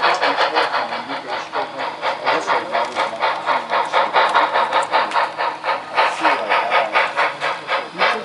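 Sound-equipped model steam locomotive chuffing steadily while switching cars, about four to five chuffs a second.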